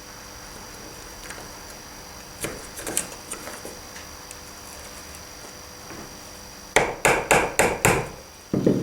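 Small hammer tapping a brass tension wire into a model bridge truss: a few light clicks a couple of seconds in, then about six quick sharp taps near the end.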